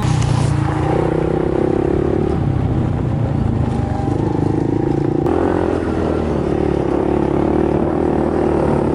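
Motor vehicle engine running at a steady pace while under way; the sound changes abruptly about five seconds in.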